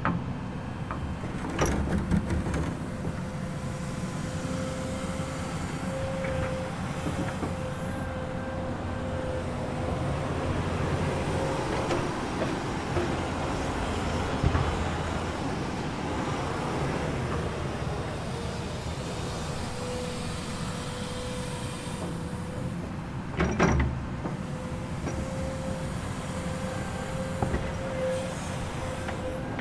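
Komatsu excavator running steadily, with a steady whine over the engine noise and a metallic clank about two seconds in and again, louder, near the end.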